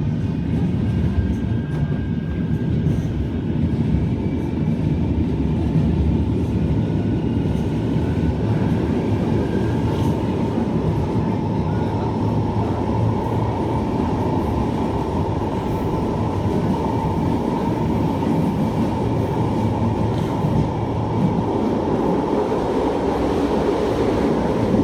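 Manchester Metrolink tram running along the line, heard from inside the car: a steady rumble of wheels on rail, with a steady whine that comes in about a third of the way through and holds to the end.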